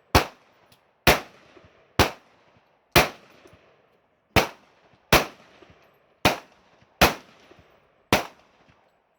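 A string of nine gunshots at an outdoor range, fired at a steady pace of about one a second. Each is a sharp report with a short echo trailing off after it.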